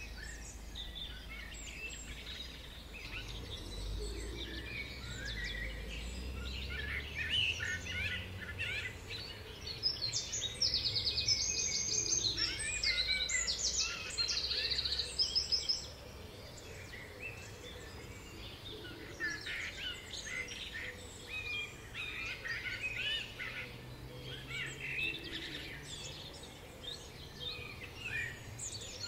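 Several songbirds singing and calling at once, a steady mix of short chirps and warbles, with fast high trills repeated in the middle. A low rumble sits under the birdsong in the first few seconds.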